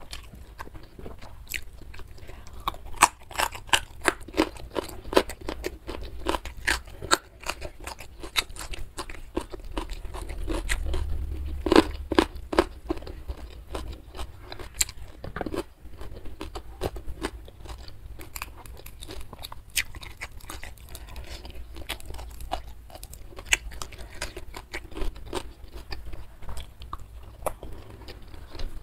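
A person chewing and crunching mouthfuls of food close to the microphone: a steady run of crisp crunches and sharp mouth clicks, the loudest bite about twelve seconds in.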